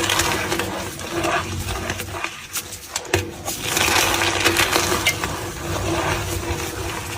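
Gym chalk being crushed and crumbled, a dense run of small crunches and crackles.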